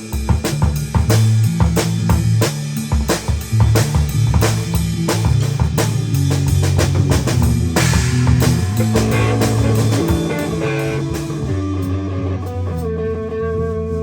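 A band playing an instrumental passage on drum kit, guitar and bass, with steady drum hits and a crash about eight seconds in. Near the end the drumming drops out and held guitar and bass notes ring on.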